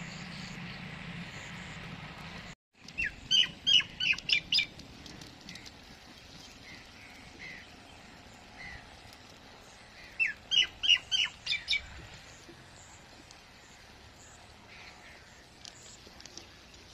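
A bird calling in two quick runs of about seven sharp, falling chirps each, a few seconds in and again about ten seconds in, over a faint outdoor background.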